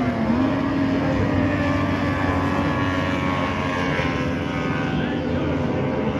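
A field of T850 outboard racing boats running flat out together, a steady blend of several engines with their pitches wavering slightly.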